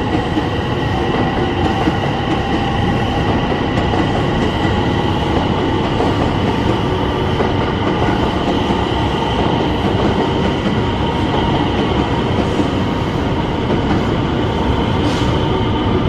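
A train running along the platform track, a loud steady rumble of wheels on rail with a high, even whine over it and a couple of faint clicks in the second half.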